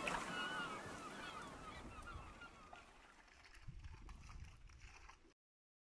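Birds calling over water: many short, chirping calls that fade away over the first few seconds, followed by a few faint low knocks. The sound cuts off suddenly about five seconds in.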